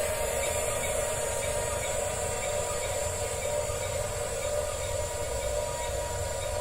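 Electric motors and plastic gearboxes of a Huina 1554 remote-controlled bulldozer running with a steady whine and grind.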